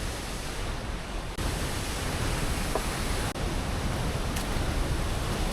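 Waterfall rushing: a steady, dense wash of falling water heard close up.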